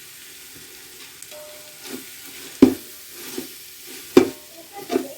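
Biryani masala of onion, tomato and spices frying and sizzling in oil and ghee while a spoon stirs it, with a few sharp knocks of the spoon against the pot, the loudest about halfway through.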